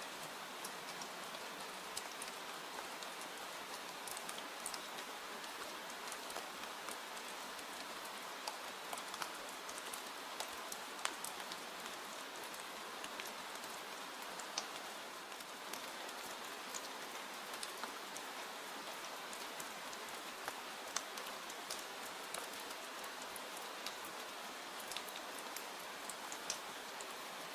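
Steady rain falling, an even hiss with many scattered sharp ticks of drops landing, a few of them louder than the rest.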